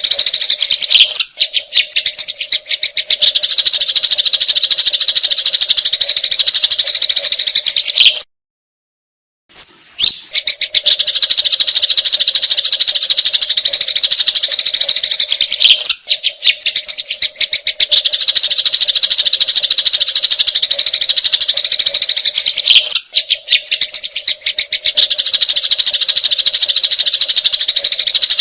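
Sparrows' fighting calls: a loud, continuous, rapid chirping chatter, broken by a sudden silent gap of about a second and a half some eight seconds in.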